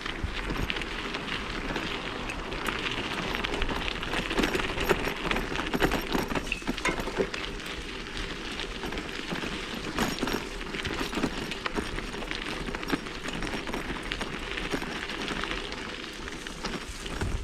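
1987 Specialized Stumpjumper mountain bike rolling over a dirt trail: a steady crackle of tyres on loose ground, with frequent small rattles and clicks from the bike.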